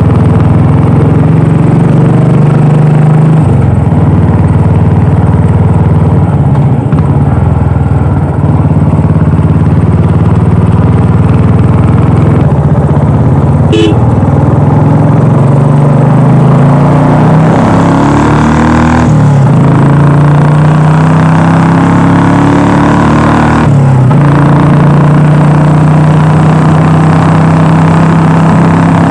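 Royal Enfield Classic 350's single-cylinder engine and exhaust running on the move. Its pitch climbs as the bike speeds up, and it dips briefly for gear changes about two-thirds of the way through and again near the end.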